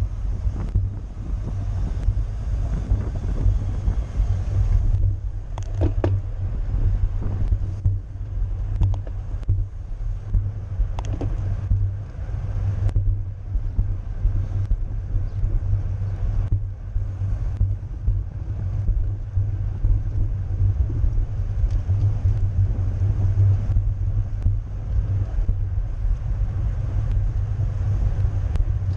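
Wind buffeting the microphone on a road bike ridden at race speed: a steady, heavy low rumble. A couple of brief sharp sounds come through about six and eleven seconds in.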